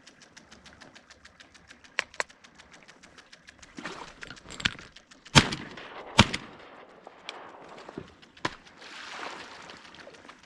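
Irregular sharp knocks and clunks against a plastic kayak hull as the paddle and gear are handled, the loudest two about five and six seconds in, over faint quick ticking.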